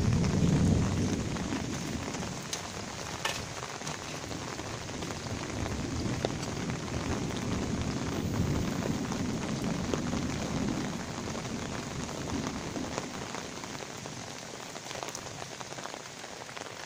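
Heavy rain falling steadily, with sharp individual drops hitting a surface close by. Low thunder rumbles under it, loudest in the first second and swelling again around the middle.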